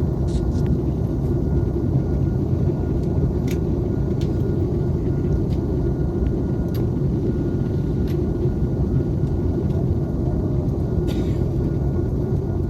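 Steady low rumble of a moving vehicle heard from inside, with a faint steady whine above it and a few light clicks.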